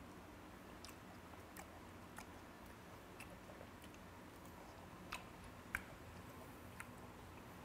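A person chewing a mouthful of chewy spicy fermented skate salad (hongeo muchim): faint, scattered wet mouth clicks, the sharpest about three-quarters of the way through.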